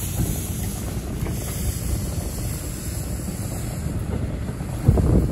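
NJ Transit commuter coaches rolling slowly past on curved track, a steady low rumble of wheels on rail mixed with wind buffeting the microphone. A louder knock about five seconds in.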